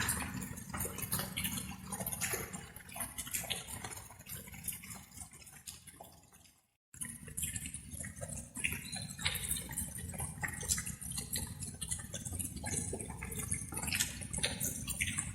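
Light rain with many separate drops dripping and pattering over a steady low rumble. About six and a half seconds in it fades away to a brief silence, then starts again abruptly, like a loop being rejoined.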